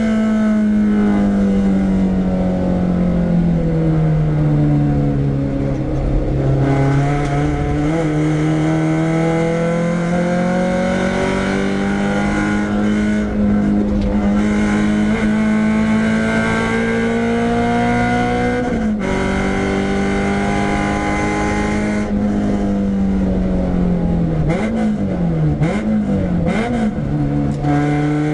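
Renault Clio 172's 2.0-litre four-cylinder engine being driven hard on track, heard loud from inside the stripped-out car. The revs fall for the first few seconds, then climb steadily for about twelve seconds, drop sharply at a gear change about two-thirds of the way in, and rise and fall quickly several times near the end before settling.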